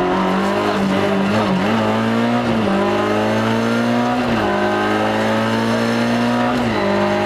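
Rally car engine under hard acceleration, heard from inside the cabin. Its pitch climbs steadily and drops sharply about three times as it changes up through the gears, with a short dip and recovery about a second and a half in.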